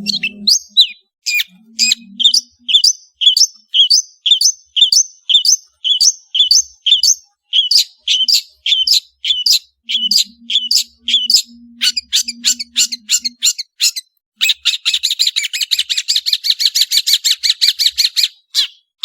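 Long-tailed shrike (cendet) singing: a series of short, sharp downward-slurred notes, about two to three a second, breaking into a fast chattering trill for about four seconds near the end.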